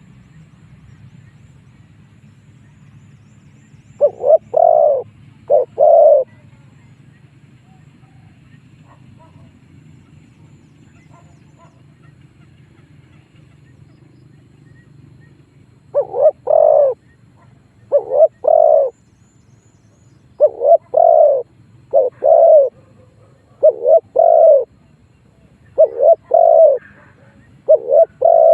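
Spotted dove cooing, as used for luring wild doves: one phrase of coos about four seconds in, then after a long pause a run of loud coo phrases repeated about every two seconds. A faint low hum runs underneath.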